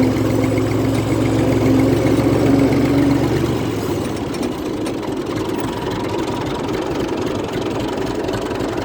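Farm tractor engine running steadily as the tractor drives forward. About three and a half seconds in the engine note drops and gets slightly quieter, as if the throttle is eased off.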